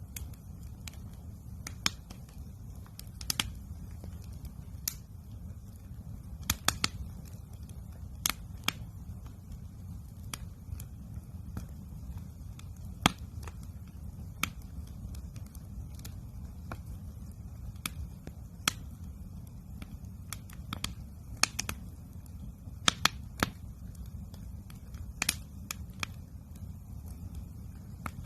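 Wood campfire crackling: sharp, irregular pops every second or two over a steady low rumble.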